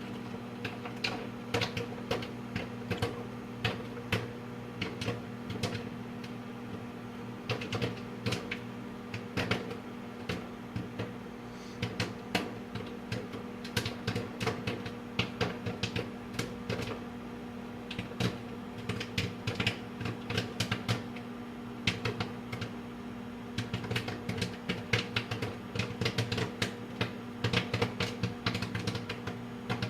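Popcorn kernels popping inside a running microwave oven: sharp, irregular pops several a second, growing denser toward the end, over the oven's steady hum.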